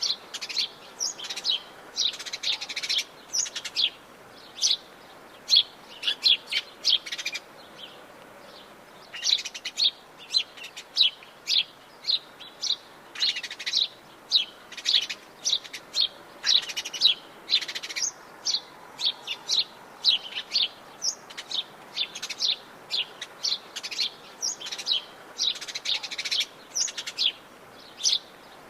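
Several birds chirping and singing in quick, dense short notes, with a brief lull about a third of the way through, over a faint steady background hiss.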